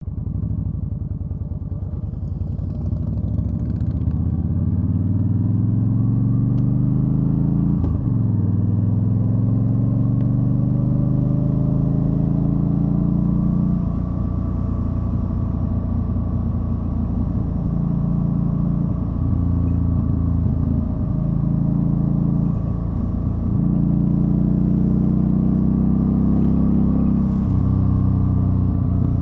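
Yamaha Stryker's V-twin engine under way on the road, pulling up through the gears: its pitch climbs over the first several seconds, drops briefly about eight seconds in and climbs again, then holds and dips now and then as the rider shifts or eases off.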